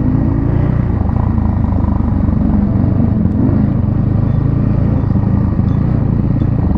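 Motorcycle engine running steadily with a low, even engine note.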